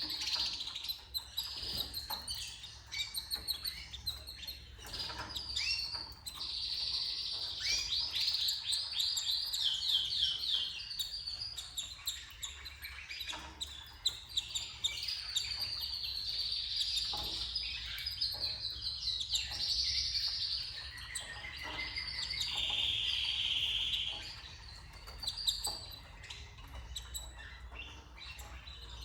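Canaries chirping and singing in fast, rapid trills that run almost without a break.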